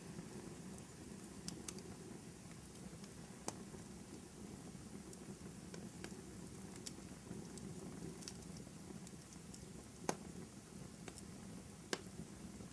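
Wood fire burning in a fireplace: a steady low crackle with scattered sharp pops, the two loudest about ten and twelve seconds in.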